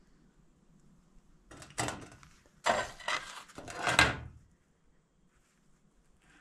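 Three bursts of scraping and knocking from something being handled, about a second and a half in, near the middle, and just after; the last is the loudest.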